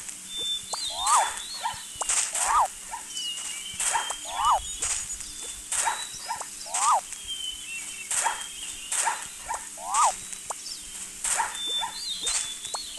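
An animal calling over and over, about every second and a half: each call is short and sharp, quickly rising and falling in pitch. Small birds chirp and whistle faintly behind it.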